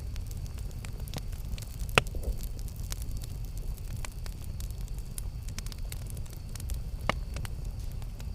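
Campfire burning: a steady low rumble under scattered crackles and pops, with the sharpest pop about two seconds in and another near the end.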